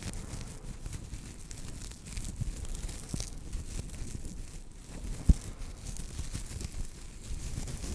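Close-up crinkling and rustling of a paper tea bag being handled and squeezed, with one sharp tap a little over five seconds in.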